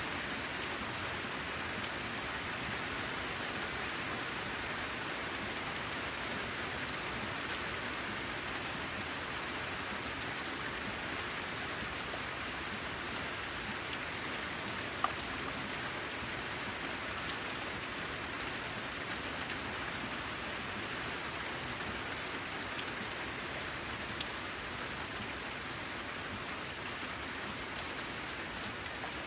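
Steady rain falling on a corrugated zinc roof: an even hiss with scattered sharp drop ticks, one louder tick about halfway through.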